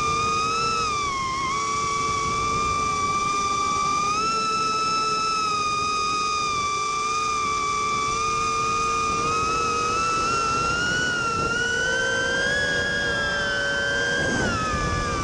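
Immersion Vortex 150 mini racing quadcopter's brushless motors whining in flight, their pitch holding steady with small shifts as the throttle changes, dipping briefly and coming back up near the end.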